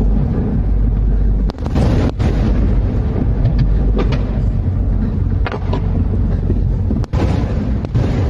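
Aerial fireworks shells bursting: a continuous low rumble of booms with several sharper bangs standing out, about one every second or two.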